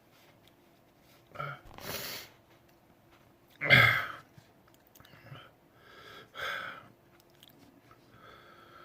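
A man groaning and exhaling hard in about five short bursts, the loudest near the middle, as he reacts to the burn of a Chocolate Jigsaw superhot pepper.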